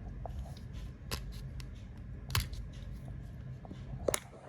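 Plastic surprise-egg toy capsule being handled and pried open by hand: a few sharp clicks and small scrapes over a low steady hum.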